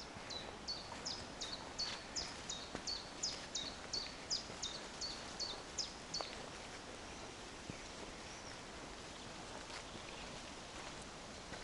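A songbird singing one long run of identical high notes, each a quick downward slur, about three a second, that stops about six seconds in. A faint steady forest background follows.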